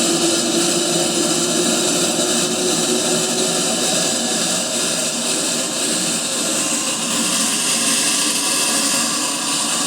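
Brastemp BWH15 top-loading washing machine running, its motor and transmission making a loud, steady whirring noise. A hum rises slightly in pitch over the first few seconds. The noise comes from the transmission, which the owner says is making noise and has a problem.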